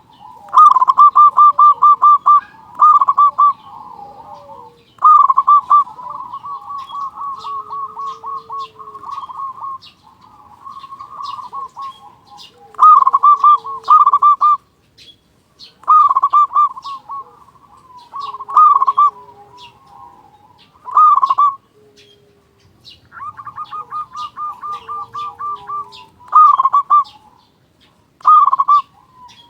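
Local zebra dove (perkutut) cooing in its loud, fast staccato trilled phrases. About a dozen bursts of rapid, evenly spaced notes are separated by short pauses, with softer warbling notes between them.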